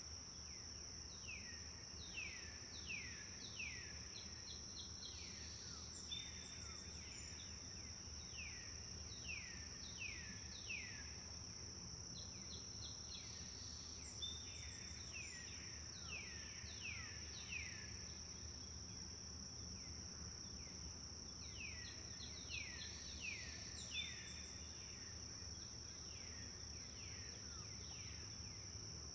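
Forest birdsong: phrases of quick descending whistled notes, repeated every few seconds, over a steady high-pitched insect drone and a low background rumble.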